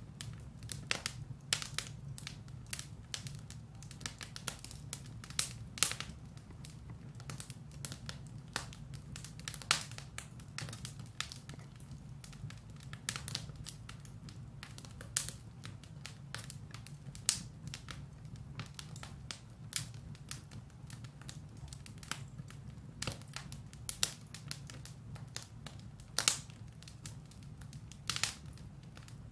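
Firewood burning in a fireplace, crackling with irregular sharp pops and snaps over a steady low rumble of the flames.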